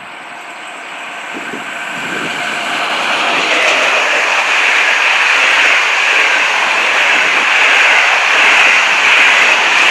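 Train running through the station, its wheel-on-rail noise growing louder over the first few seconds as it approaches, then staying loud and steady as it passes close by.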